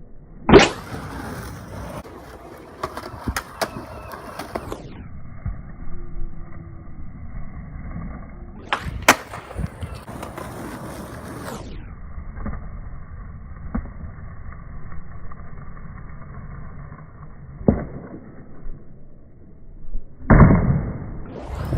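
Skateboard wheels rolling on pavement, broken several times by sharp tail pops and board-and-wheel landing slaps as frontside 180s are performed.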